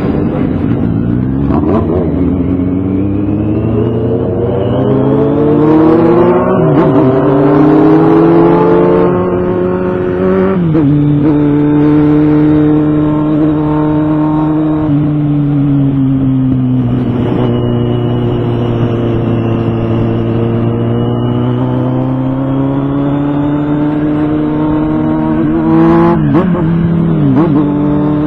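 Motorcycle engine pulling under acceleration, its pitch climbing steadily for about ten seconds, then dropping suddenly at a gear change and running at a steady cruising pitch, with another brief change near the end.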